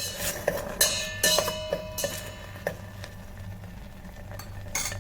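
Spoon scraping and knocking against the metal pot of an electric kettle while stirring frying scrambled egg, with several ringing metallic clinks in the first half and quieter scraping after.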